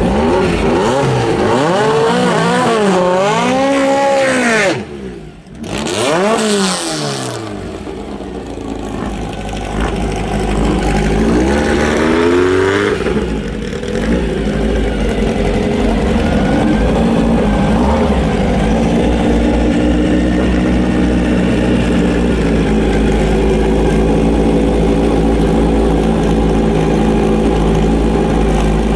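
VW Type 3 Squareback drag car's engine revving up and down in quick rises and falls, with a sudden break about five seconds in. It then revs up in one long climb and settles to a steady idle as the car rolls forward.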